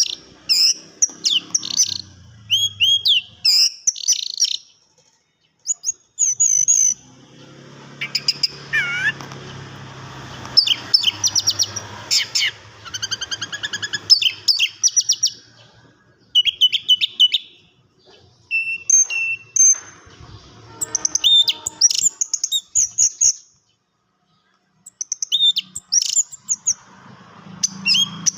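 Orange-headed thrush (anis merah) singing: runs of quick whistled notes and chirps in varied phrases, with short pauses between phrases and two brief silences.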